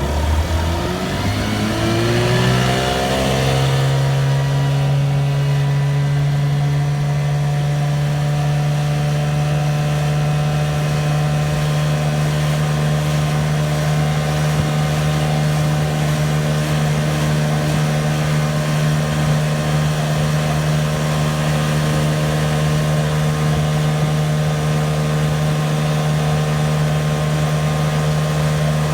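1972 Chrysler 20 hp two-cylinder two-stroke outboard motor being throttled up, its pitch rising over the first few seconds, then running steadily at speed under way.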